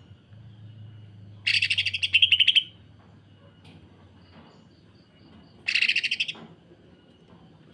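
Green leafbird (cucak ijo) giving two bursts of rapid, rattling harsh calls like a sewing machine, the second shorter than the first.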